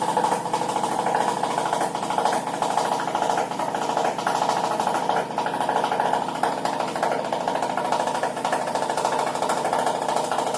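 LG F1296HDS3 washing machine on its spin cycle, running steadily with a fast, continuous knocking.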